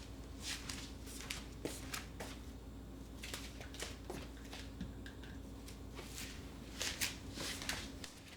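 Soft rustling and light clicks of things being handled and moved while tidying, coming irregularly, over a low steady hum.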